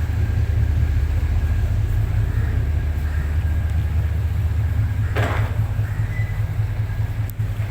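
High-speed passenger ferry's engines running with a steady, deep drone heard on board, with a short burst of noise about five seconds in.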